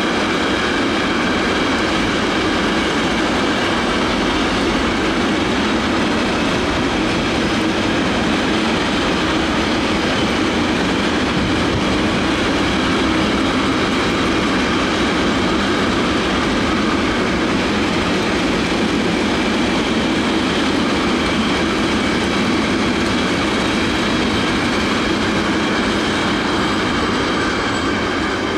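Container freight train's wagons rolling past at speed: steady loud rumble of steel wheels on rail, with thin high ringing tones over it. The noise eases slightly near the end as the last wagons go by.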